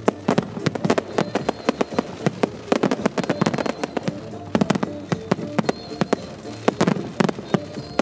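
Aerial fireworks shells bursting in a dense barrage, several sharp bangs a second with crackle between them, over the music of the pyromusical show.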